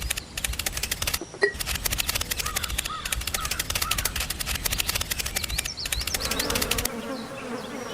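Rapid, even mechanical rattling from a small machine, with a low thudding underneath, cutting off suddenly about seven seconds in; a faint steady hum follows.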